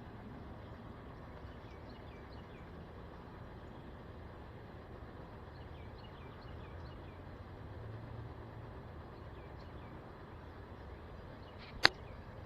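Faint bird chirps over a steady low background rumble, with one sharp, loud click near the end.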